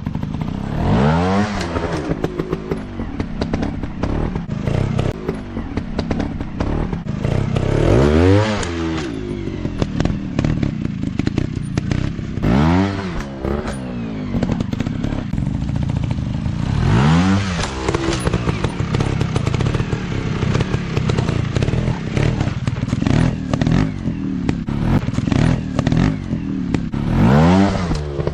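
Off-road dirt bike engines running and being revved in repeated throttle bursts, the pitch rising and falling back about five times, with clattering and knocks over rough ground.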